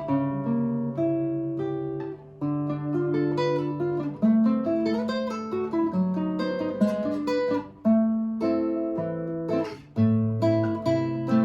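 Russian seven-string acoustic guitar played solo: a fingerpicked melody over ringing bass notes, broken by a few sharp strummed chords.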